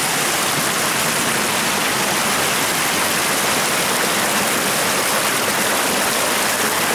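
Storm-swollen creek in flood, fast water rushing in a loud, steady, unbroken wash.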